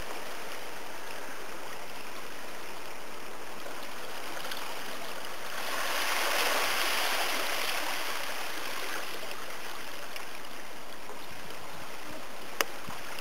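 Steady rush of water at the shore, swelling for a few seconds about six seconds in as a wave washes in. A single short click near the end.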